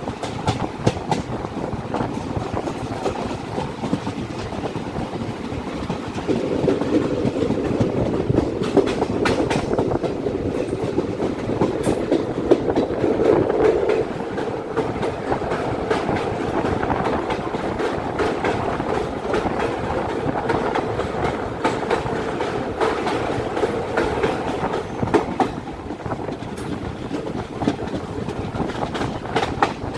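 A train running along the track: a steady rumble with the wheels clattering over the rail joints. A louder hum builds from about six seconds in.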